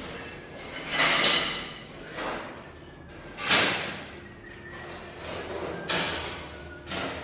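A neighbour making loud noises: a series of sudden, harsh bangs, about five in seven seconds, each dying away over about half a second.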